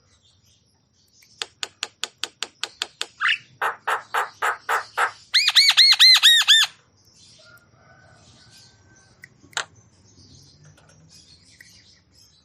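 Javan myna calling: a run of short harsh notes about four a second, then a loud, fast trill of ringing, arched whistled notes lasting about a second, followed by soft chatter and one sharp note.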